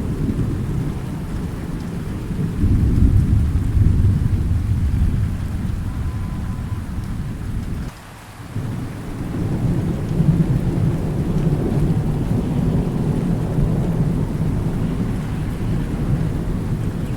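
Rolling thunder rumbling low over steady rain, loudest a few seconds in. About halfway through the rumble drops out abruptly for half a second, then comes back and carries on.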